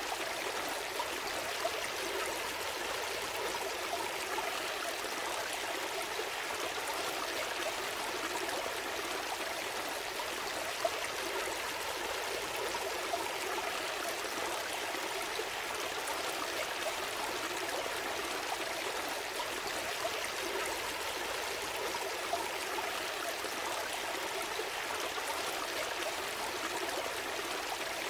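A small stream flowing and burbling steadily, with small splashes and trickles.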